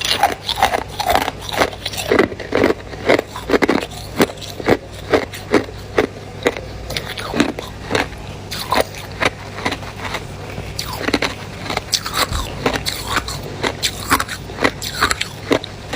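A person biting and chewing ice cubes close up, with sharp crunches repeating a few times a second.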